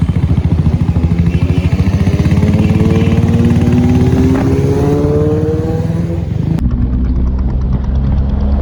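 Kawasaki ZX-10R's inline-four engine running and accelerating, its pitch rising steadily. About two-thirds of the way in the sound cuts abruptly to a steadier, lower engine note.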